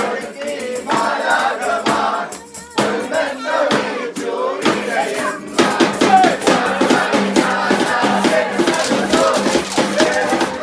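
Group of voices singing a Christmas carol, with a steady drum beat and shakers coming in about halfway.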